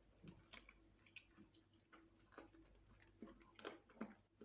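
Faint, irregular mouth clicks and lip smacks of people chewing fried chicken eaten by hand.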